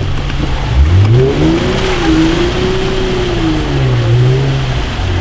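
Jeep Wrangler's engine revving under load as it pushes through a deep mud hole: the pitch rises about a second in, holds, then drops back near the end.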